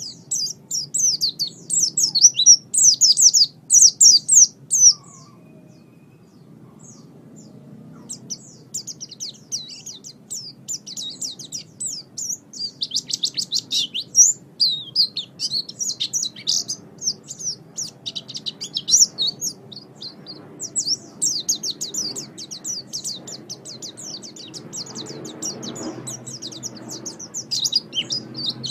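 Small songbirds chirping in rapid, high-pitched runs of quick notes, the kind of bird-song recording played to lure and tutor cage birds. The chirping pauses about five seconds in and picks up again near eight seconds, over a faint low background hum.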